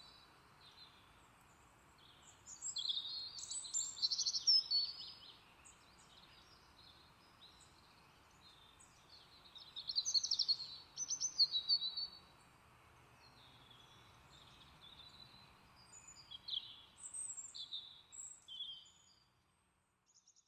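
A songbird singing in three bouts of quick, high, warbling notes a few seconds apart, over faint steady outdoor background noise.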